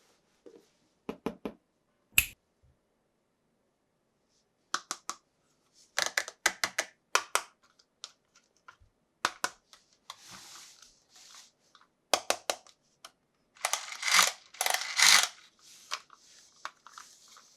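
Hands handling plastic toy parts and packaging: groups of sharp plastic clicks and snaps, with a longer stretch of crinkling rustle about three-quarters of the way through.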